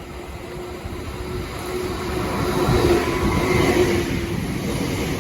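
Southeastern Class 465 Networker electric multiple unit approaching and passing on the line, growing steadily louder. Over the rail and wheel noise there is a steady hum.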